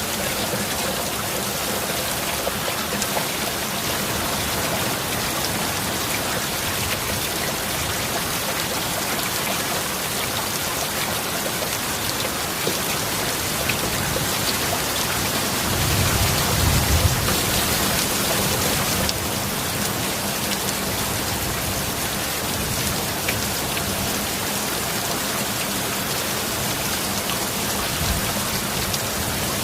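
Steady heavy rain, with a short low rumble of thunder a little past halfway.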